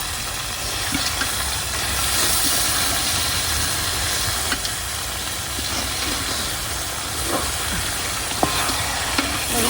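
Chicken frying in hot oil in a pan with a steady sizzling hiss, over a low rumble.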